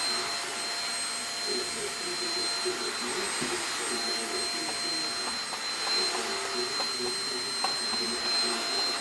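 Handheld Keromee UV dust mite vacuum cleaner running steadily: a constant motor hiss with a thin high-pitched whine.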